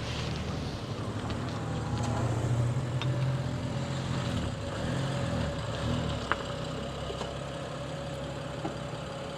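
BMW 135i's turbocharged inline-six running at low revs through a new aftermarket exhaust as the car drives up. The engine note rises and eases a couple of times.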